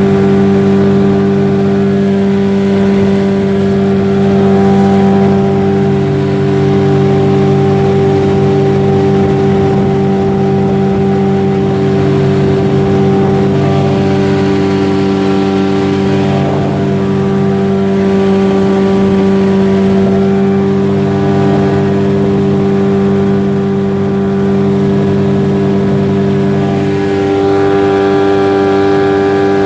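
A 15 hp outboard boat motor running steadily at a constant speed, its engine note holding a near-constant pitch, with a slight change in tone near the end.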